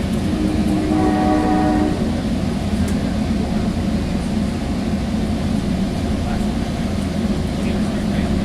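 Sounder commuter train running, heard from inside a passenger car as a steady low rumble; a horn sounds once, about half a second to two seconds in.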